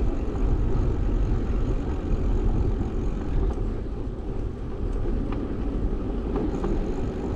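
Steady low rumble of wind and road noise on a bicycle-mounted GoPro while riding, with a few faint ticks.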